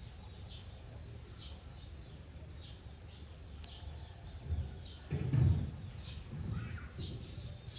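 A bird calling in short, high chirps, about one or two a second, over a steady low rumble. About five seconds in there is a louder low burst.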